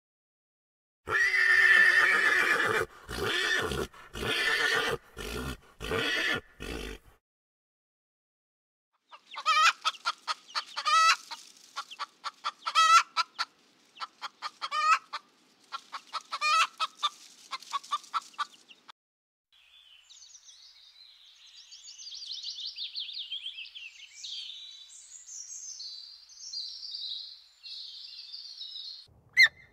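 Animal and bird calls from separate recordings, one after another. First comes a loud call repeated several times over about six seconds. Then come about ten seconds of short, quick pitched notes in groups, and near the end a fainter high twittering.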